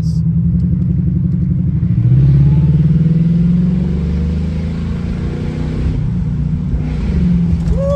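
Jaguar XJR's supercharged V8 running under way, its engine note rising as the car accelerates about two seconds in, then holding and easing off.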